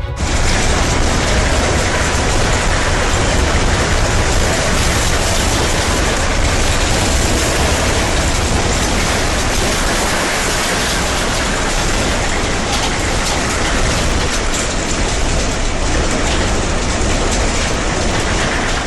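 Heavy rain pouring down: a steady, loud rushing hiss over a low rumble, which cuts in abruptly and drops away at the end.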